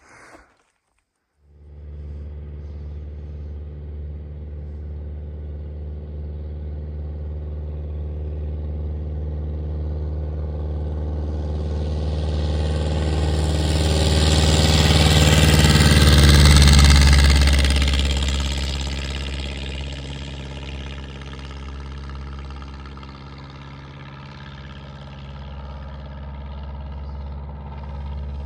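A light airplane's piston engine at high power and its propeller, growing louder to a peak a little past the middle, then fading as it passes by and moves away.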